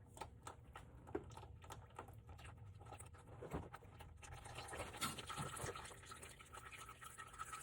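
Faint, irregular dripping of engine oil mixed with water from the oil pan's drain hole.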